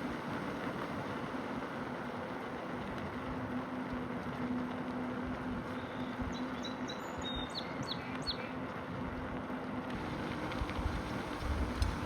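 Steady outdoor background noise with a faint low hum, and a small bird chirping a quick run of high notes about six to eight seconds in. Wind thumps on the microphone near the end.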